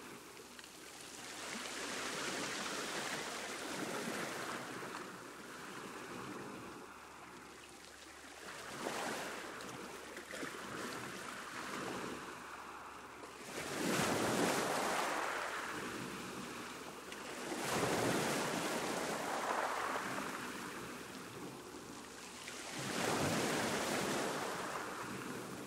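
Sea waves breaking and washing up a beach, each one swelling and fading away; the biggest break about 9, 14, 18 and 23 seconds in.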